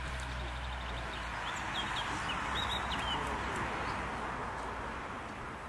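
Birds chirping, a quick run of short high calls about two seconds in, over a rushing noise that swells toward the middle and then fades.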